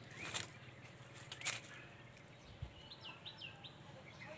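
Small birds chirping, a run of short quick chirps starting about three seconds in, over a faint low steady hum. Two brief swishes come earlier, about half a second and a second and a half in.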